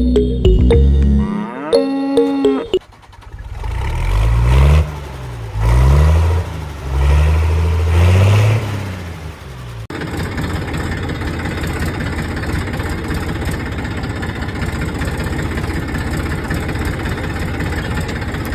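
An engine revving up and down in repeated short rises and falls, then running steadily from about halfway on. Music plays briefly at the start.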